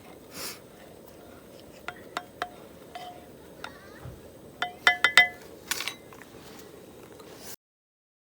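Cutlery clinking against dishes while eating: scattered light taps, each with a short ring, and a quick cluster of clinks about five seconds in. The sound cuts off abruptly to dead silence near the end.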